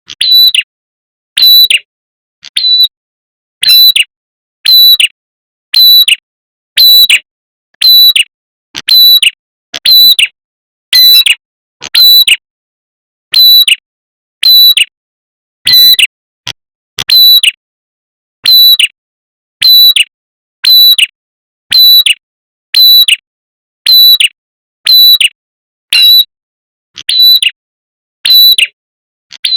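Lure-call recording of a prenjak kepala merah (a small Javanese warbler-type bird), loud and looped: one short, sharp call repeated about once a second.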